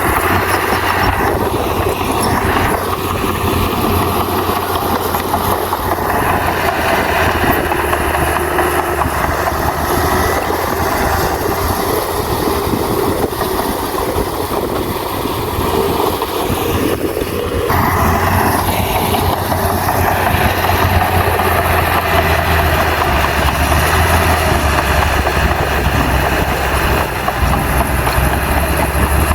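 Heavy earthmoving machine's diesel engine running steadily under work, with a low, constant hum beneath a broad mechanical noise. The sound shifts abruptly about two-thirds of the way through.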